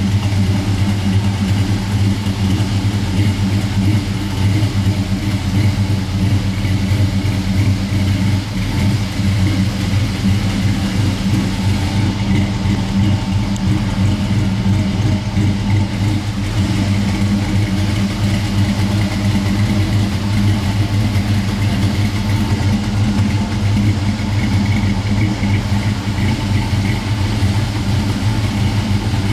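A 1955 Chevrolet two-door's engine idling steadily, a constant low running sound with no revving.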